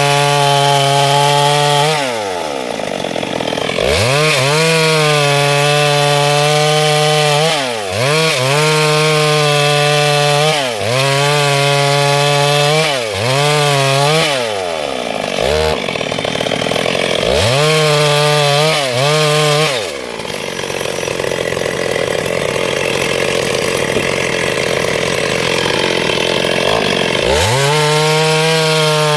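Chainsaw running at high revs cutting lengthwise through wood, its pitch sagging and climbing back several times as the throttle eases and the chain bites. For several seconds in the second half the engine note is buried under the coarse noise of the cut.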